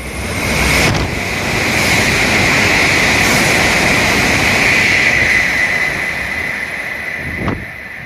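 Hokuriku Shinkansen train passing non-stop through a station at about 260 km/h: a loud rush of air and running noise with a steady high whine, which builds suddenly about a second in as the nose arrives and holds for about six seconds. A sharp thump near the end marks the tail going by, and the noise then fades.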